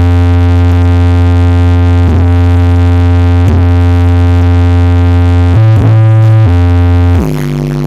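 Electronic music played loud through a big sound system: a deep synthesizer bass note held steady, with faint hits about every second and a half. The bass steps up in pitch about five and a half seconds in, returns a second later, then drops to a lower, quieter note near the end.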